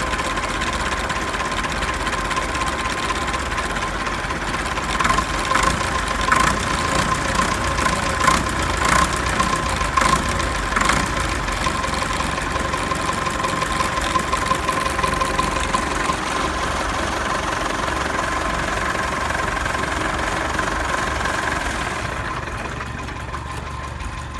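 Vintage tractor engine running at a steady idle. Between about five and eleven seconds in there are several sharp knocks or clatters, and the sound drops a little in level near the end.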